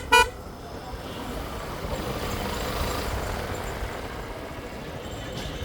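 A vehicle horn gives a short beep at the start, then a steady rush of road and traffic noise.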